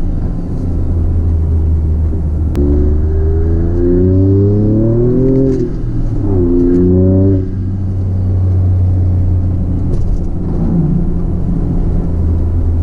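Toyota GR Corolla's turbocharged 1.6-litre three-cylinder, fitted with an aftermarket Fi exhaust, accelerating through the gears. It rises in pitch from about two and a half seconds in, shifts up around five and a half seconds, rises again, then lifts off near seven and a half seconds and settles into a steady low cruising drone.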